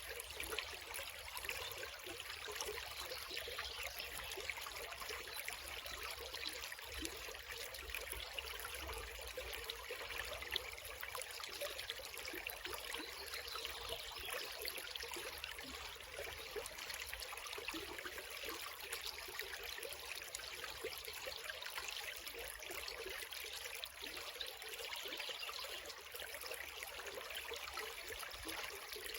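Creek water flowing steadily with a continuous trickling rush.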